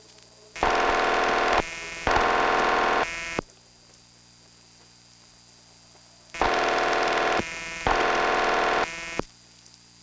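Raucous, buzzy ringback tone of an old rural Bell System exchange heard down a phone line, ringing double: two bursts of about a second each, then a pause, and the pair again about six seconds later. The double ring is a leftover of multi-party line ringing. A steady low line hum runs under it.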